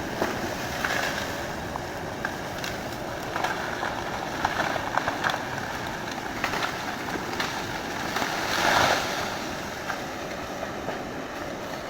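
Excavator working at land clearing: a steady machine rumble with many scattered sharp cracks and knocks, and a louder surge about nine seconds in.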